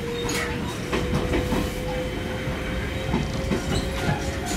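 Interior of an Ichibata Electric Railway 3000 series (ex-Nankai 21000 series) electric train car while running: a steady motor whine slowly rising in pitch as the train gathers speed, over the rumble of the wheels with scattered knocks and rattles.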